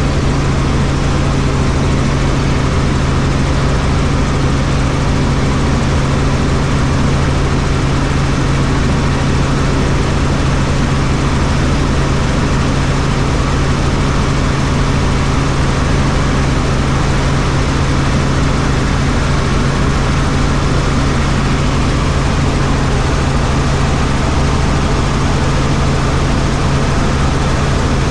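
Helicopter in flight: steady rotor and engine noise with a strong low hum, unchanging throughout.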